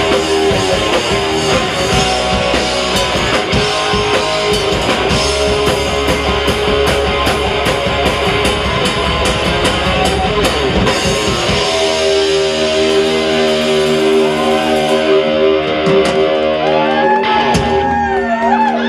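Live rock band playing loud, with electric guitar and drums. About twelve seconds in the drums and bass drop out, leaving sustained guitar notes ringing, with sliding, wavering pitches near the end as the song closes.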